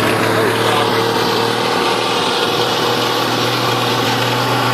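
Old Graham Brothers / Dodge Brothers truck engine running steadily, having just started for the first time in about 20 years.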